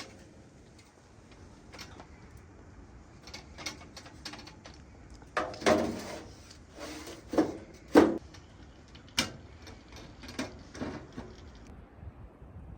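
A series of irregular knocks and clatters from objects being handled, the loudest few a little past halfway.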